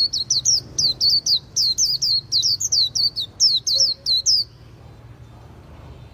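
White-eye singing a quick run of high, sharply falling chirps, about four or five a second, that stops abruptly about four and a half seconds in.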